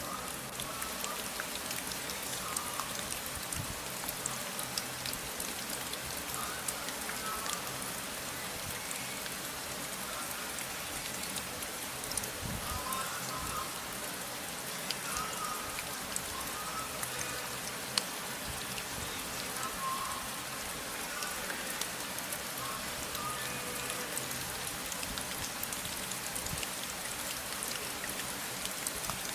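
Steady rain falling, with dense small clicks of individual drops throughout and no change in strength.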